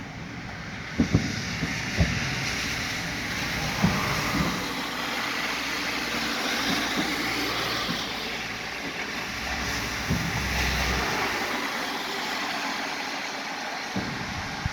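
Distant fireworks heard from about 4 km away: a string of dull booms and thumps over a continuous rumbling hiss. The sharpest booms come in a cluster in the first few seconds, with more around ten and fourteen seconds in.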